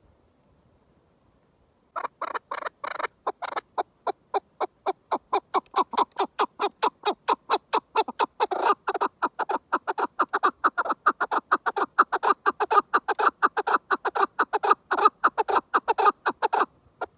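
Chukar partridge calling: a long, rapid run of repeated chuk notes, about five or six a second, that grows louder partway through and stops abruptly.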